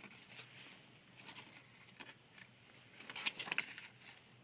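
Faint handling noise: light rustling and scattered clicks, with a brief cluster of sharper clicks about three seconds in.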